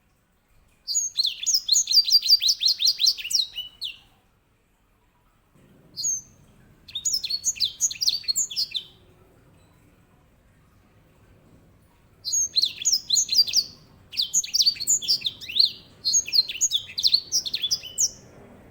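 Grey singing finch (white-rumped seedeater) singing: five phrases of rapid, high trilling song, each one to three seconds long, separated by short pauses.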